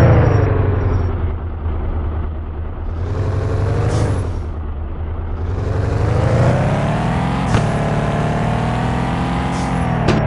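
Fiat Doblo van's engine running on the move, its pitch falling and climbing several times as it accelerates and changes gear, with a short click about seven and a half seconds in.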